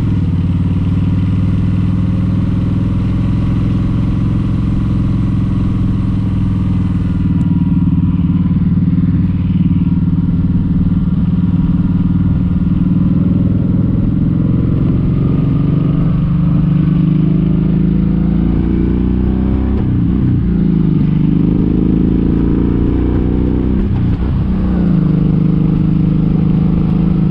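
Kawasaki Vulcan 1700 Vaquero's V-twin engine running steadily under way. Its pitch dips and climbs back twice in the last third.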